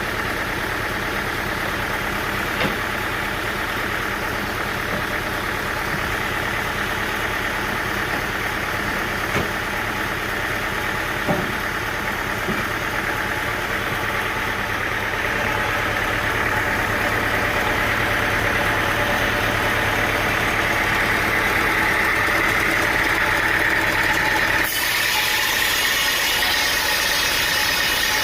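Sawmill machinery running steadily on an engine, with a few light knocks. Near the end the sound changes abruptly to a brighter, hissier run.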